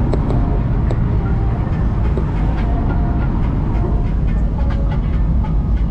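Loud in-cabin road and engine noise from a BMW E36 drift car on the move: a steady low rumble with scattered light rattles and squeaks throughout.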